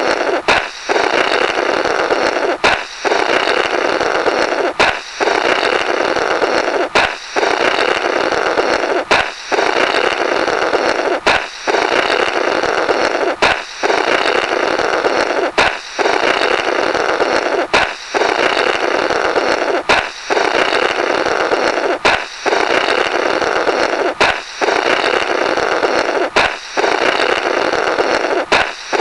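Comical 'blorrrt' balloon sound effect on repeat: a sharp balloon pop, then a buzzy rasp of someone blowing through the burst rubber for about two seconds. The cycle repeats evenly about every two seconds, over a dozen times.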